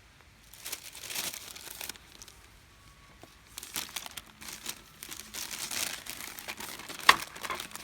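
Thin sheet material being crumpled and crinkled in irregular bursts, with one sharp click about seven seconds in.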